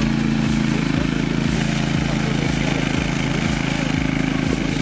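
Remote-controlled mower's engine running steadily.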